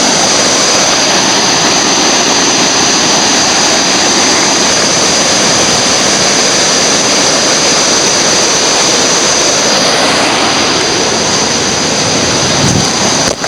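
Steady, loud rushing of river white water.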